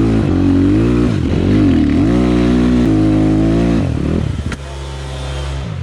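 Enduro motorcycle engine revving up and down in repeated bursts, then dropping to a lower, steadier running note about four seconds in.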